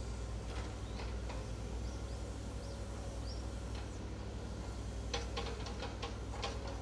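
A few short, rising bird chirps over a steady low rumble, with a quick run of sharp clicks near the end.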